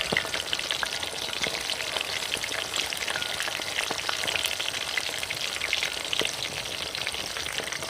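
Masala-coated quail pieces frying in hot oil in a pan: a steady, dense sizzle full of small crackles and pops.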